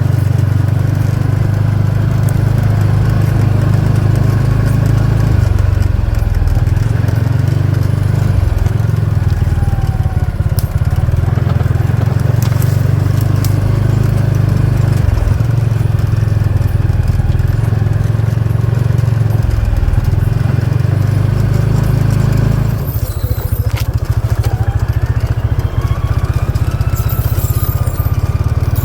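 Engine of a CFMOTO off-road buggy running steadily under way with a low drone. The note changes about three-quarters of the way through.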